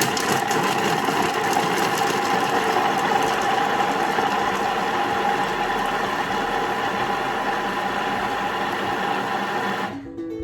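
Kitchen machine's blades chopping onion, parsnip, garlic and fresh herbs at speed 5 for ten seconds. The motor runs steadily, then stops abruptly near the end.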